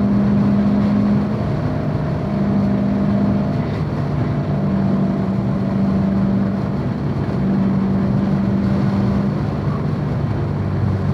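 C7 Corvette Z06's supercharged 6.2-litre V8 running at a steady, moderate engine speed, its note holding at nearly one pitch with a few short dips rather than hard revving.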